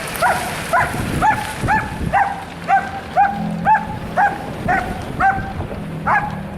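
A dog barking over and over in short, even, high barks, about two a second.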